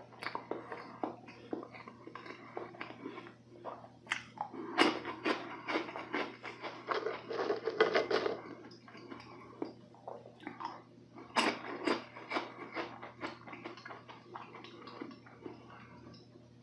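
Close-miked chewing and biting of sweets, including a lemon meringue cookie, with many small crisp clicks. There are louder crunchy bursts from about four to eight seconds in and again briefly around eleven seconds.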